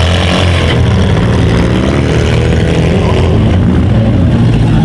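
Small-car engines in a demolition derby heat revving hard, their pitch rising and falling continuously, with several engines overlapping.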